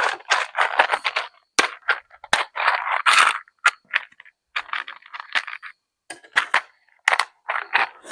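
Hands rummaging through a container of small wire crimp connectors: irregular rattling and clinking, in short clusters with brief pauses.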